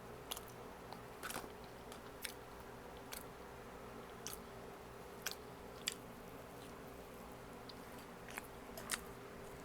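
A person chewing food close to the microphone: scattered short, sharp mouth clicks and smacks, about one or two a second, over a faint steady hum.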